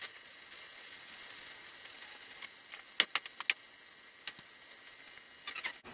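A handful of sharp metallic clinks and taps, bunched near the middle and again near the end, over a faint steady hiss: steel and tools being handled at the forge.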